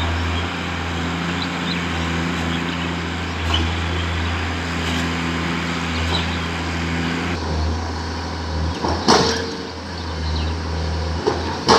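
A heavy vehicle's engine running steadily, with two loud knocks or clanks near the end.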